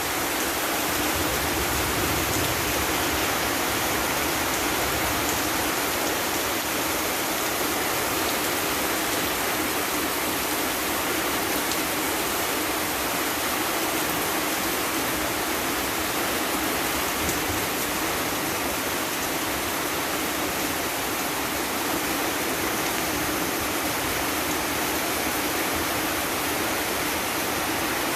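Heavy rain and wind in a storm, a steady, dense hiss with no let-up.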